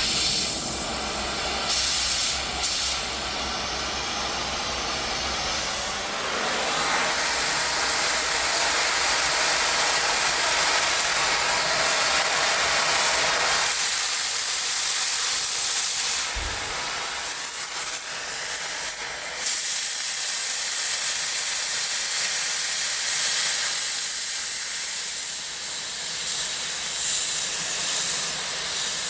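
Oxy-fuel cutting torch giving a steady, loud hiss as it cuts through the steel of a hydraulic cylinder rod to remove its broken eye. The hiss changes tone a few times as the cut goes on.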